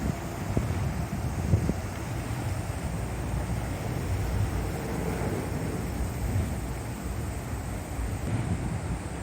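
San'yō Shinkansen 700-series RailStar train running at speed, a steady low rumble with rushing air noise.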